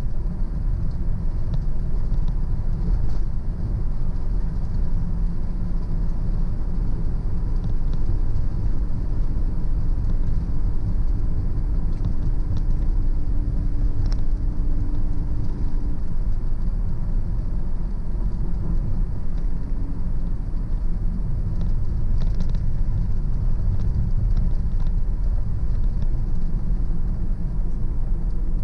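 Car driving along a road: a steady low rumble of engine and tyre noise. A faint steady hum rises over it from about eight seconds in and fades by about sixteen seconds.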